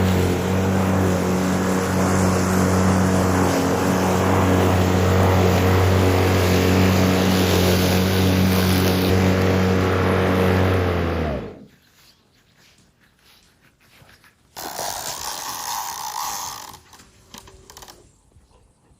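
A motor running with a steady, even hum that cuts off abruptly about eleven seconds in. A softer sound follows for a couple of seconds near the end.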